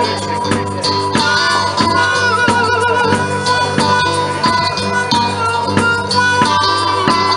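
Live blues band playing an instrumental passage: guitar over a steady beat, with a lead melody that wavers in pitch.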